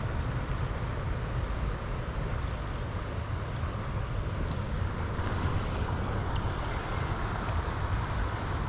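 Steady rush of fast-flowing river water, with wind buffeting the microphone as a low rumble.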